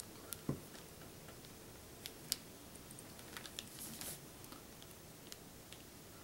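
Faint, scattered plastic clicks and taps as a CPU cooler's push-pin fasteners are worked in and out of the motherboard. There are a few clicks near the start, a pair about two seconds in and a small cluster around four seconds.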